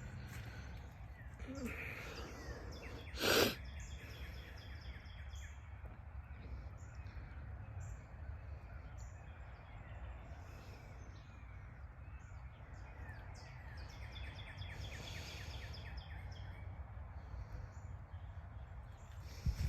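Outdoor ambience with a steady low rumble and scattered bird calls, one short loud sound about three seconds in, and a thump near the end.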